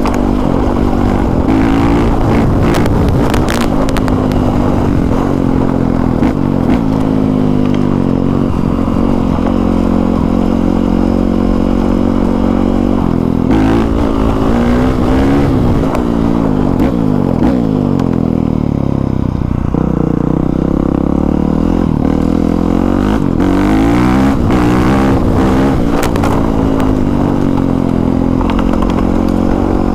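Dirt bike engine running while being ridden, its pitch rising and falling again and again as the throttle is opened and closed through the gears.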